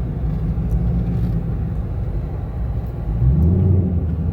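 Car engine running and road noise while driving, a steady low drone; about three seconds in the engine note rises as the car accelerates.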